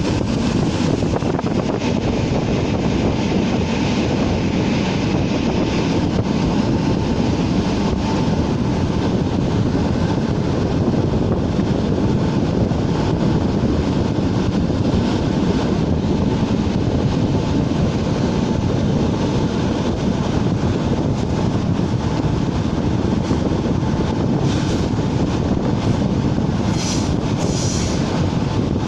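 ČD class 460 electric multiple unit running along the line: a loud, steady rumble of wheels and running gear on the track. A few short, high-pitched sounds come near the end.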